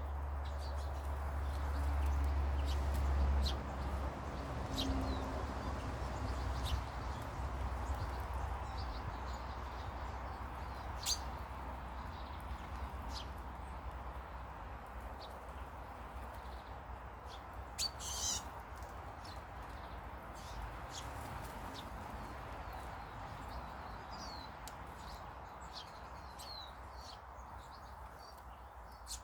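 Garden birds giving short, scattered chirps and calls over a steady background hiss, with a low rumble during the first few seconds.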